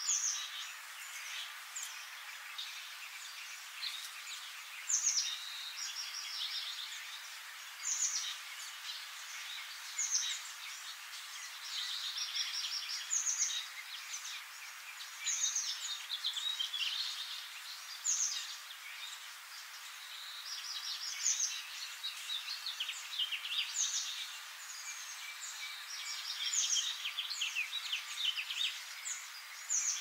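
Several birds chirping and singing, short high calls and quick sweeping notes coming in clusters every two or three seconds over a steady background hiss.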